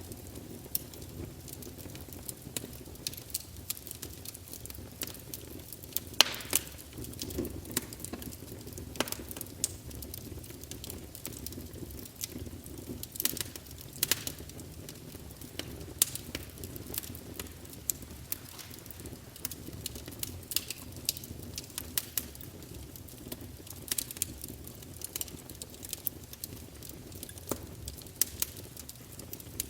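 Wood fire burning in a fireplace, logs crackling with irregular sharp pops over a steady low rumble of the flames.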